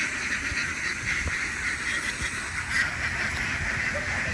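A large flock of farmed ducks quacking all at once, a dense steady chorus of overlapping calls.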